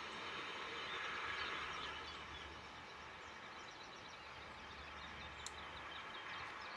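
Steady rumble of a CSX freight train fading a little, with small birds chirping over it in quick short notes from about two seconds in, and a single click near the end.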